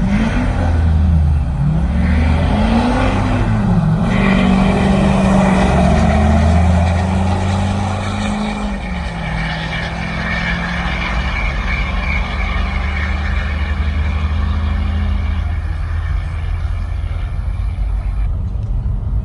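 Truck engine revved up and down about three times in quick succession, then held at steady high revs and eased down a step.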